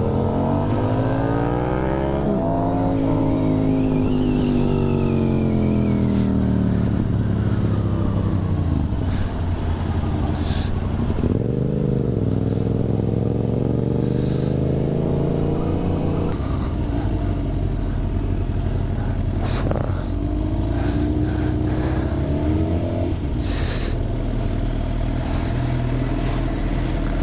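Suzuki GSX-R 750 inline-four with an Akrapovic slip-on exhaust, running under way. Its pitch climbs at the start, falls away over several seconds, rises and drops quickly near the middle, and climbs again later, over a steady rush of wind.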